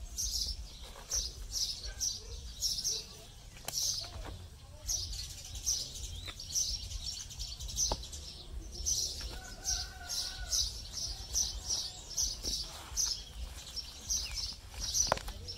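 Small birds chirping steadily, short high chirps several times a second.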